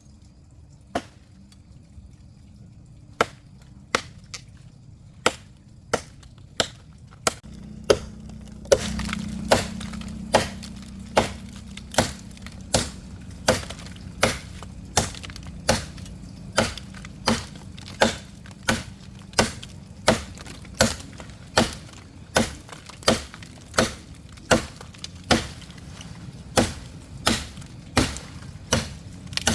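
Repeated chopping strikes on wood, a few irregular blows at first and then a steady rhythm of about one and a half strokes a second, with a low steady hum underneath from about seven seconds in.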